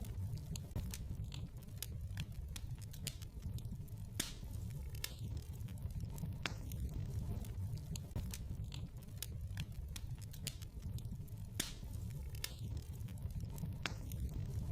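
Wood fire crackling in a fireplace: irregular sharp pops and snaps over a steady low rumble of the burning logs, with a couple of louder pops about four seconds in and near eleven seconds.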